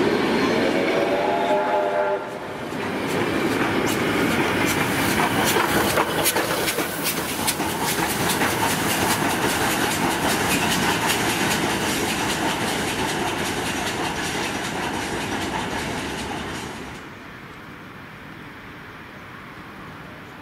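A heritage steam-hauled train of wooden carriages running past, wheels clacking sharply and repeatedly over rail joints, with a steam locomotive at its tail. A short pitched tone sounds in the first two seconds, and the train noise dies away about 17 seconds in.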